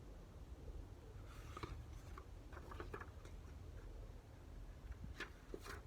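Faint handling noise in a quiet small room: a few light rustles and soft taps scattered through, over a low steady background hum.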